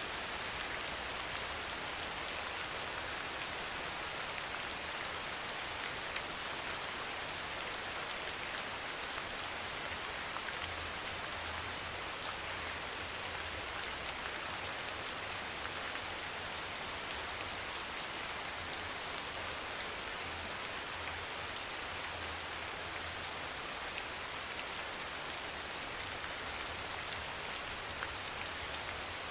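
Steady rain falling, an even hiss of many small drops ticking on a surface, with a faint low rumble underneath.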